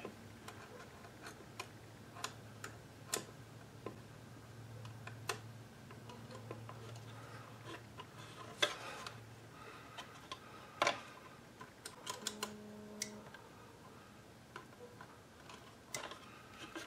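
Scattered light clicks and taps of small plastic parts being handled while a climate control panel and its ribbon cable connector are refitted, over a faint steady hum.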